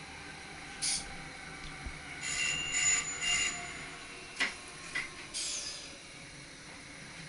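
SGM Sprinter electric train running along the track: its wheels give a few short high squeals, there are two sharp clicks about halfway through, and a brief falling squeal follows, over a steady running rumble.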